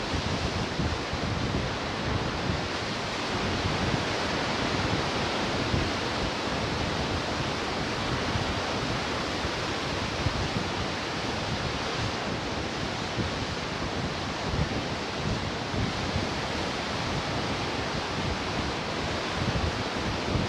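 Ocean surf washing steadily on the shore in a continuous hiss, with low gusts of wind on the microphone.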